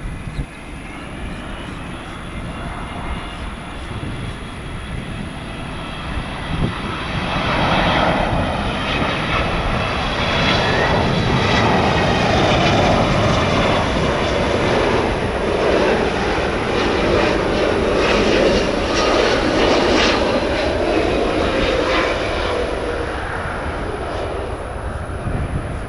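Jet airliner passing close, its engine noise building to a peak and then fading, with a high whine throughout and a tone that drops in pitch as it goes by.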